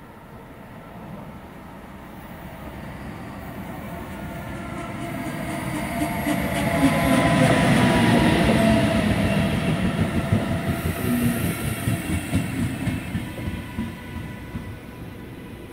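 Intercity train pulled by an electric locomotive arriving and passing close by. The rumble builds to its loudest as the locomotive goes past, about seven seconds in, then the coaches follow with a rapid clickety-clack of wheels over rail joints, slowly fading.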